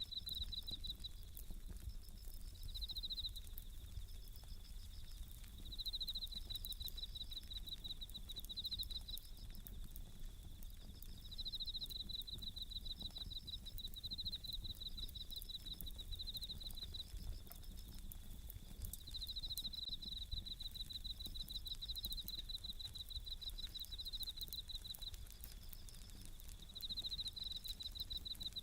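Japanese bell crickets (suzumushi) singing: repeated high, ringing pulsed chirps in phrases of a second or two, with the faint scattered crackle of a wood campfire underneath.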